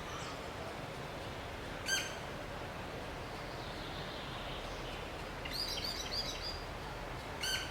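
Short, sharp bird calls against a steady hiss: a single loud call about two seconds in, a quick run of chirps past the middle, and another single call near the end.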